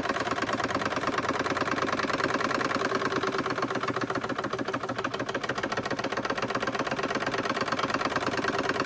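Wilesco D32 model steam engine running steadily, with a fast, even mechanical beat from its cylinder and moving parts.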